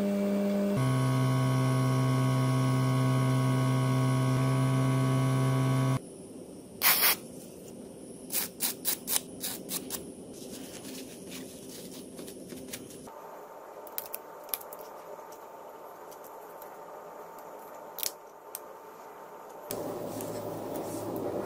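A small electric motor runs steadily with a hum, dropping in pitch about a second in, and stops suddenly about six seconds in. It is followed by a run of light clicks and taps, then a few scattered ticks.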